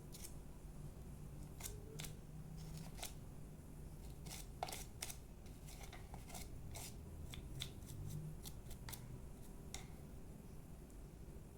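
Irregular run of sharp, short clicks and snips from small hand work on the opened hair dryer, densest in the middle.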